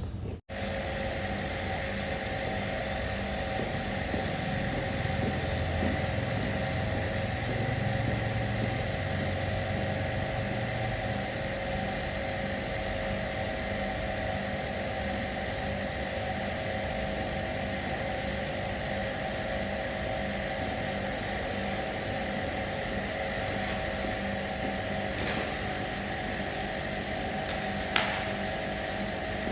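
A motor running steadily with a constant hum, its pitch unchanging throughout. A single sharp click sounds near the end.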